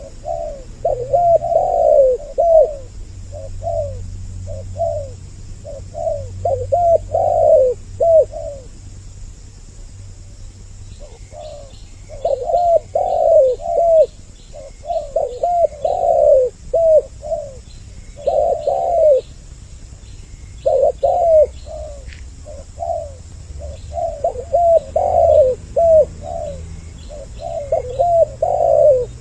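Spotted doves (tekukur) cooing over and over in quick overlapping phrases of short, falling coo notes, as if two birds are answering each other. The cooing pauses briefly about a third of the way in, then resumes.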